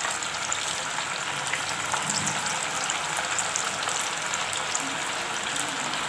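Flour-coated marinated chicken pieces deep-frying in hot oil: a steady sizzle with fine crackles as more pieces are dropped in one at a time.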